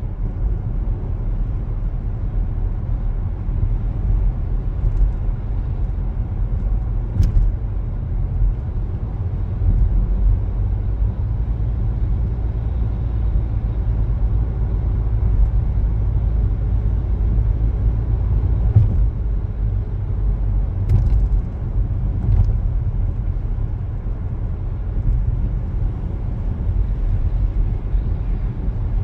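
A car driving along: a steady low rumble of road and engine noise, with a few faint clicks.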